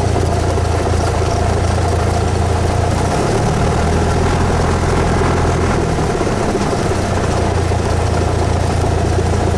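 Cessna 172S's four-cylinder Lycoming IO-360 engine and propeller running steadily, heard loudly. Its pitch shifts slightly between about three and six seconds in.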